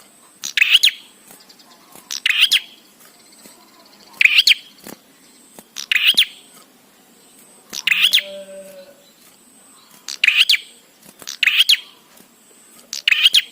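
Prenjak (prinia) calling: a short, sharp chirping phrase repeated about eight times, one every one and a half to two seconds.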